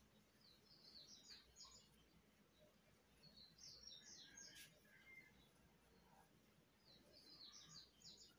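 Faint bird song: three short phrases of quick, high chirps, about three seconds apart, over quiet room tone.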